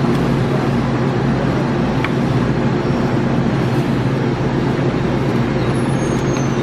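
City bus engine running steadily, a continuous low hum with road noise, heard from inside the bus.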